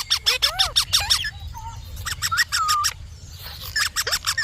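Indian ringneck parakeet chirping and squawking: quick runs of short, sharp calls with rising and falling notes, broken by brief pauses.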